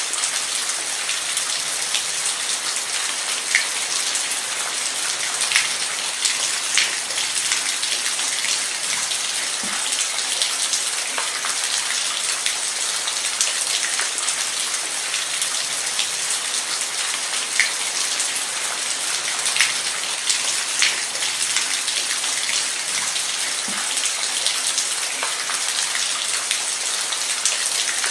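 Steady rain falling, an even hiss with the ticks of single drops hitting a surface scattered through it.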